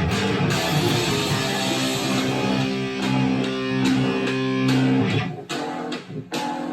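Electric guitar, a Gibson SG Standard with 57 Classic humbucking pickups, playing a metal riff. It holds ringing chords for about five seconds, then switches to short, chopped chords with brief gaps near the end.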